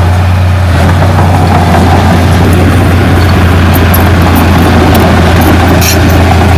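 Diesel engine of a heavy earthmoving machine running steadily with a strong low hum, and a few sharp clicks near the end.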